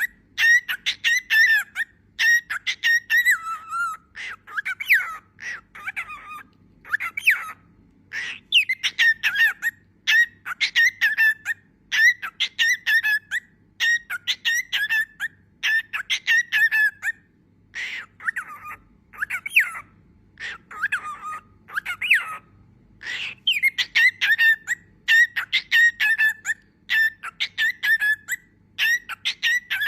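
Cockatiel chirping and whistling in quick runs of short, sharp calls, broken by brief pauses.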